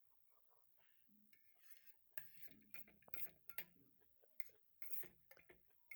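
Eating noises: soft, irregular clicks and smacks of chewing chow mein, starting about two seconds in.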